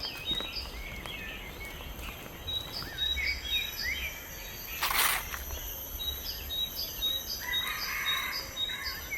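Birds calling with short repeated chirps and gliding notes, over a steady high drone of insects. A brief rustle about halfway through.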